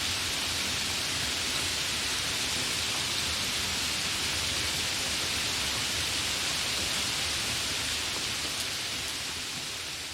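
Steady downpour of heavy rain, an even hiss that begins fading out near the end.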